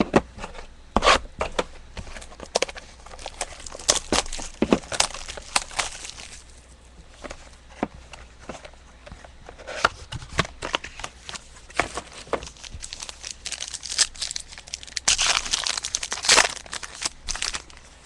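Plastic wrappers of trading card packs being torn open and crinkled, with a run of crackly handling noises and clicks; the crinkling is densest near the end.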